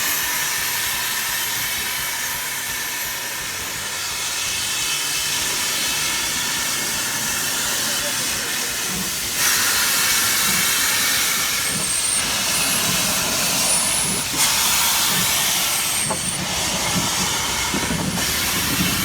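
Steam locomotive hissing steam, a steady loud hiss that steps up abruptly about nine seconds in and again about fourteen seconds in. A few brief high squeaks come in the second half.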